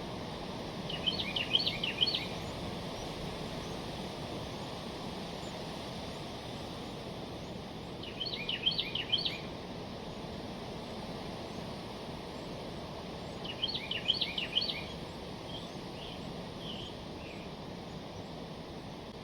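A wren singing three short, bubbly bursts of rapid high notes, about six seconds apart, with a few stray notes after the third, over a steady low outdoor hiss.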